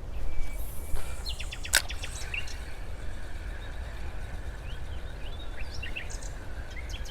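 Small birds chirping and whistling in short calls over a steady low outdoor rumble, with a single sharp click about two seconds in.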